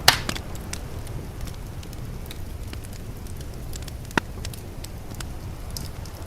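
Wood fire crackling, with scattered small pops and two sharp, louder pops: one right at the start and one about four seconds in, over a steady low rumble.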